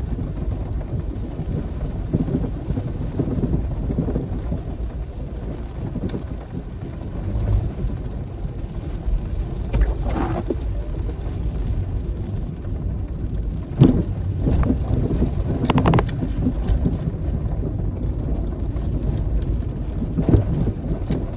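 Steady low rumble of a vehicle travelling through heavy rain and strong wind, with rain noise and wind buffeting the microphone. A few short knocks stand out, the clearest about two-thirds of the way in.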